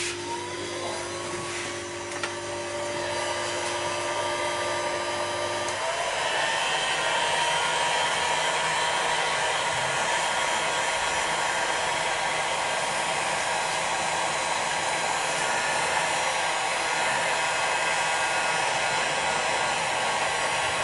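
Hot-air blower fan motor spinning up with a rising whine. About six seconds in it steps up to a higher setting, then runs with a steady rushing hiss of air.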